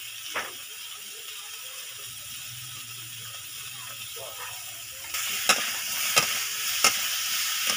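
Star fruit pieces sizzling in oil in a metal karahi, a steady hiss. About five seconds in the frying gets louder as a metal spatula stirs them, clinking sharply against the pan four or five times.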